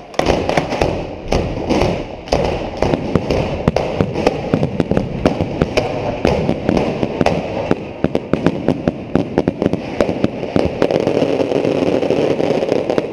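Barrage of bottle rockets and firecrackers from a beehive fireworks wall: many sharp cracks and bangs, several a second, overlapping without pause. A steadier rushing noise builds beneath them near the end.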